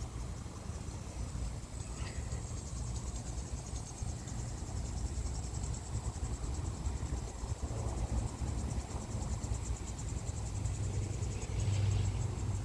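Insects trilling steadily in a high, rapidly pulsing chorus, over a low rumble.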